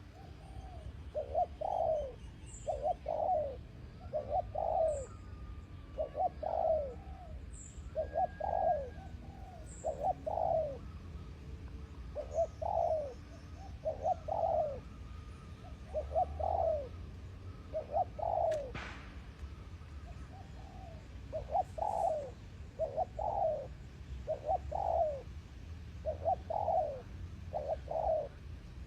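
Spotted dove, a decoy bird, cooing over and over, its short phrases of two or three coos coming every second or two. A small bird's faint high chirps come in the first ten seconds, and there is one sharp click about two-thirds of the way through.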